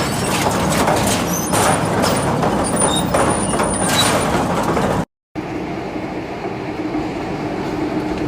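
Industrial metal shredder running, grinding and crunching metal with a steady clatter of knocks. It cuts out for a moment about five seconds in, then resumes as a steadier rumble with fewer knocks.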